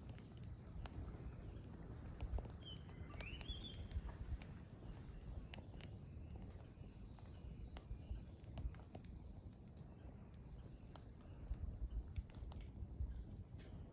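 Burning firewood in a campfire crackling with scattered sharp pops over a low rumble, and a single short rising bird chirp about three seconds in.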